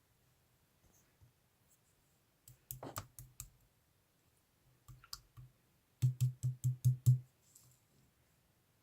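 Slime being pressed and squeezed by hand, making small clicking pops in short bursts. The loudest is a quick run of about six clicks near the end.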